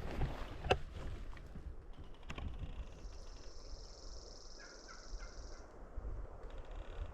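Wind rumbling on the microphone, with a few faint clicks in the first second and a steady high buzz lasting about two and a half seconds midway.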